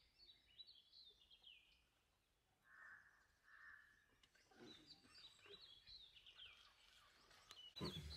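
Faint forest ambience with scattered bird chirps and calls, sliding in pitch, in two spells. Near the end there is a brief thump.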